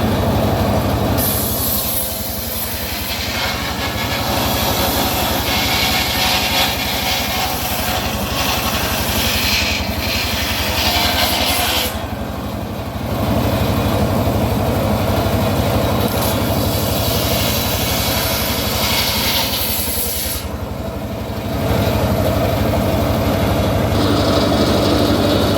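Homemade circular sawmill running continuously, its blade cutting through a teak log with a steady low hum under a bright, hissing cutting noise. The cutting noise eases off briefly twice, about halfway through and again near the end, then picks up again.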